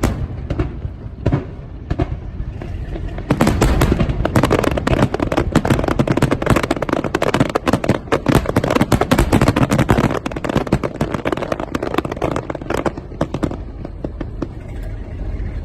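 Aerial fireworks going off: a few separate bangs, then from about three seconds in a dense, rapid barrage of bangs and crackles for about ten seconds, thinning out near the end.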